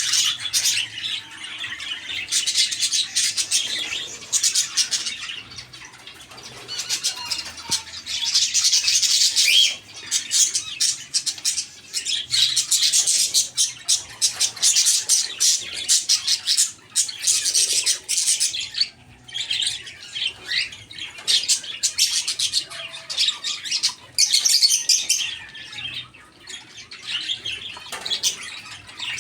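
A flock of parakeets and lovebirds chattering and squawking, with many birds calling at once in loud surges that drop into brief lulls.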